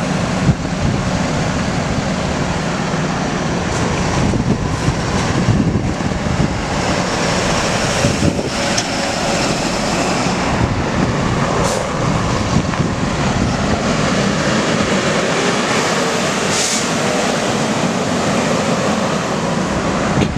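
Seagrave Marauder fire engine and Ford F-450 ambulance driving past on an emergency response: loud, steady road and engine noise, with wind on the microphone.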